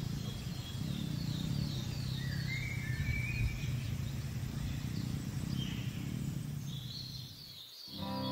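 Riverside ambience: a bird calls in a series of short, high, downward chirps, about two or three a second, over a steady low rumble. The ambience fades out near the end as guitar music comes in.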